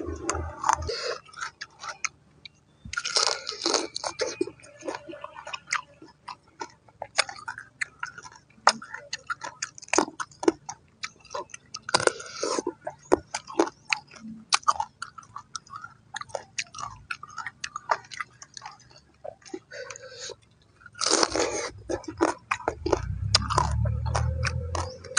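A person chewing and biting raw crab pieces close to the microphone: a steady run of sharp crunches and crackles, with a few louder, wetter stretches of chewing.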